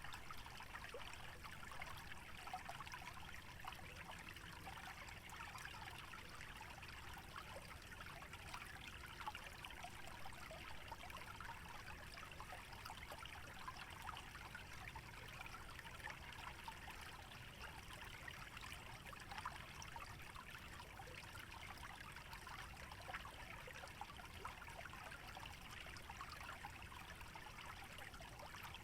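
A shallow stream trickling through a wetland: a steady, soft babble of water with many small splashes and gurgles.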